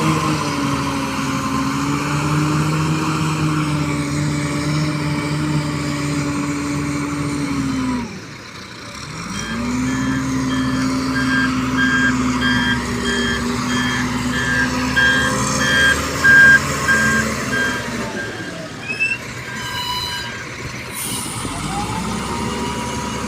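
Heavy truck engine running, its note dropping away about eight seconds in and then picking up again, while a reversing alarm beeps about twice a second through the middle stretch. A couple of short, loud knocks or hisses come near the end of the beeping.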